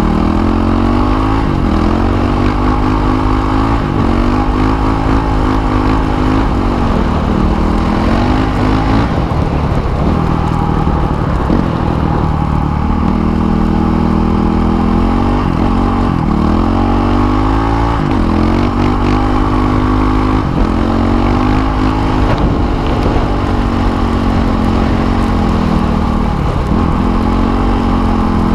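Motorcycle engine running under way, its pitch climbing and then dropping sharply every few seconds as the throttle is rolled off and on and it goes through gear changes.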